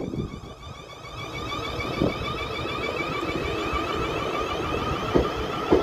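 South Western Railway electric multiple-unit train approaching along the platform, growing louder with a steady high whine and a few short clunks from the wheels on the track.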